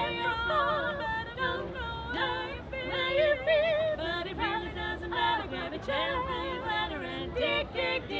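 Several voices singing together in harmony, with female voices prominent, wide vibrato and sliding pitches.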